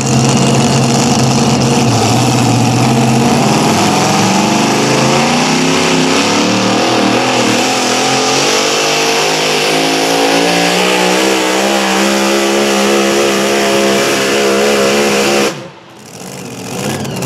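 Pulling tractor's engine at full throttle hauling the sled down the track, its pitch dipping at first and then climbing steadily through the run. The engine sound cuts off abruptly about fifteen seconds in.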